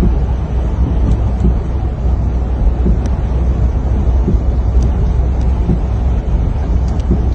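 Steady low rumbling of wind buffeting the microphone, with a few faint ticks.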